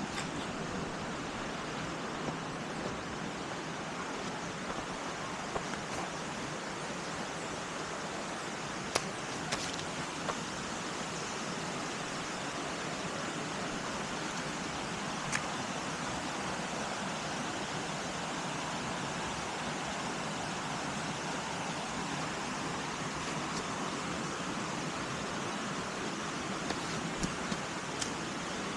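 Steady rush of a waterfall pouring into a rock pool, with a few faint sharp clicks about nine and fifteen seconds in and near the end.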